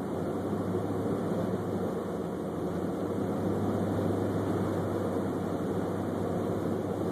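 Steady road and engine noise of a car being driven, heard from inside the cabin, with a constant low hum under an even rush of tyre and road noise.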